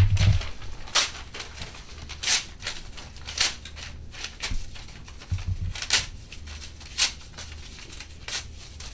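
A sheet of paper crinkling and rustling in short, irregular crackles as it is handled.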